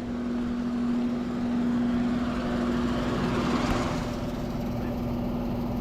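Air-conditioning condenser units running: a steady compressor hum under the rushing air of the condenser fans, one of the units sounding weird.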